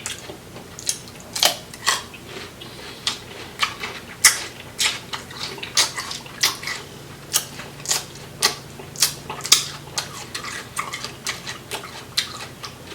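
Close-up wet eating sounds from a seafood boil: irregular smacks and clicks, about one or two a second.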